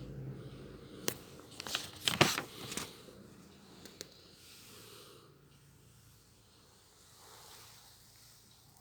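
A few sharp clicks and a short rustle, like handling noise, then faint room tone.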